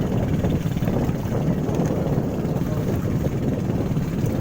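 Motorcycle engine running steadily under way, with a fast low pulsing throb and a noisy rush of wind.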